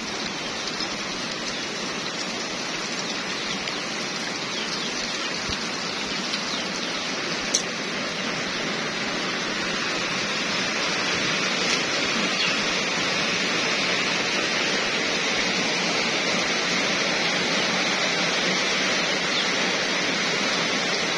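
Steady rain falling on puddles and wet ground, growing a little heavier through the first half. A single sharp click about seven and a half seconds in.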